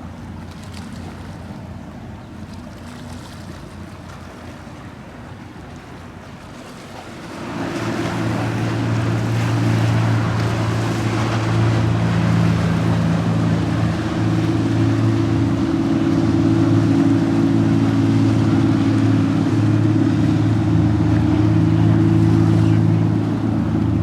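Boat engine running, a steady low drone that comes in loudly about seven seconds in as the boat passes close, over a hiss of wind and water.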